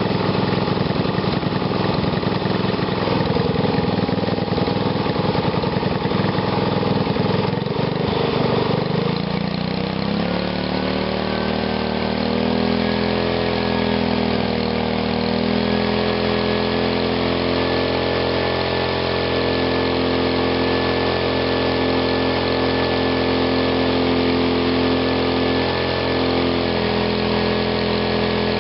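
Engine fed through a home-built GEET fuel reformer running roughly at low speed, then revving up about nine seconds in and holding a steady, higher speed.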